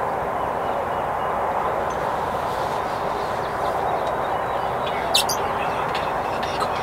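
Small birds chirping faintly over a steady outdoor noise, with one sharp click about five seconds in.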